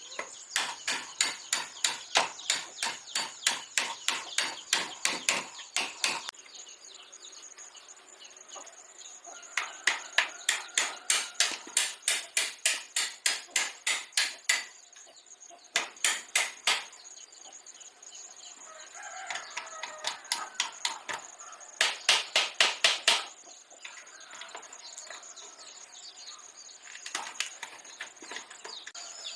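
Rapid hammering in runs of about three or four blows a second, with pauses between the runs.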